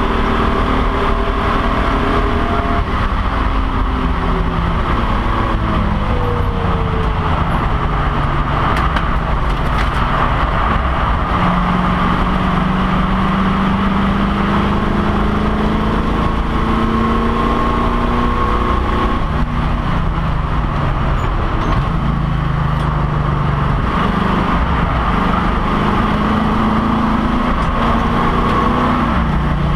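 Race car engine running hard under load, heard from inside the cockpit. Its pitch climbs and drops in steps as the driver shifts gears and slows for corners, over a constant rush of wind and road noise.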